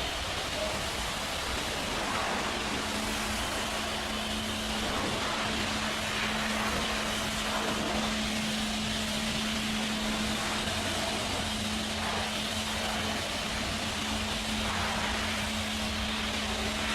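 Steady machine noise: a constant hum under an even, unbroken hiss.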